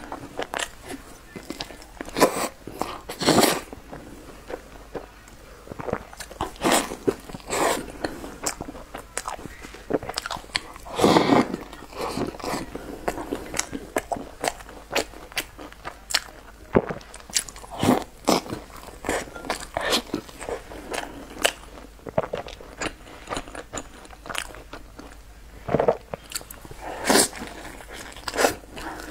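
Close-miked eating: a person biting into and chewing crunchy food, with irregular sharp crunches and softer mouth sounds between them, a few crunches much louder than the rest.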